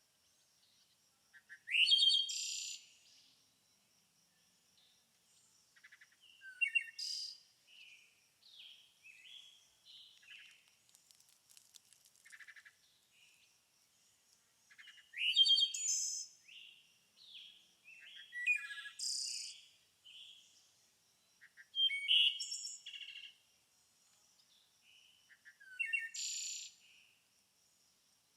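Songbirds singing: loud, high-pitched song phrases a few seconds apart, with softer chirps and twitters in between.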